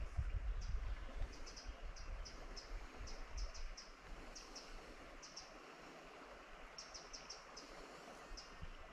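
A small bird chirping: short, high notes repeated irregularly, often two or three in quick succession, over the faint steady rush of the river. A low rumble of wind or handling on the microphone fades out a few seconds in.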